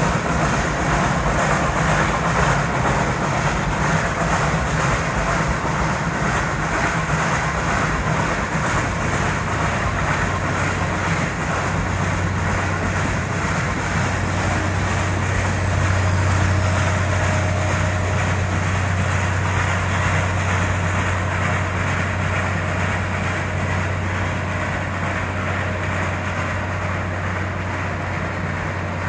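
Steam-hauled train of old passenger coaches rolling past on the rails and pulling away, a steady rumbling noise with a low hum that drops lower about a third of the way through, then slowly fades as the train moves off.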